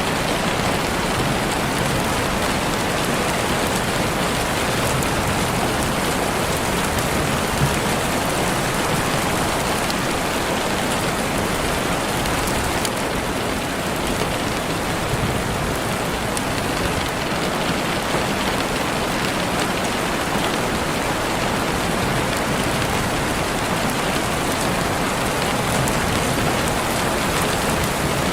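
Heavy rain falling steadily on leaves and the forest floor, an even, dense hiss with no letup.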